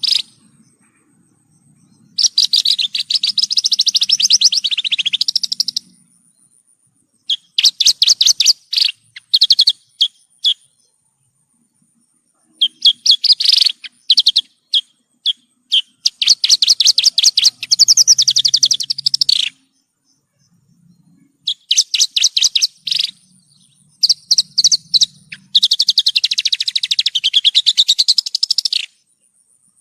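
Javan bush lark (branjangan) singing: bouts of rapid, trilled notes lasting a few seconds each, with short pauses between them, five bouts in all, the longest near the middle and at the end.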